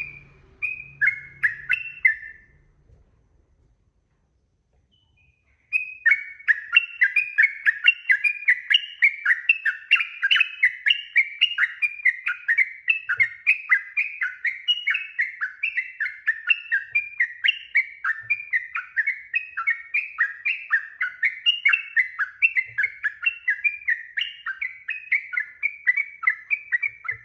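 Yellow-vented bulbul (trucuk) singing: a short burst of chirpy notes, a pause of a few seconds, then a long unbroken run of rapid repeated, bubbling notes, about three a second.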